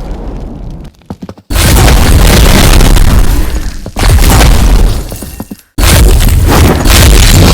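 Very loud, distorted booming noise that drops away and slams back in suddenly three times.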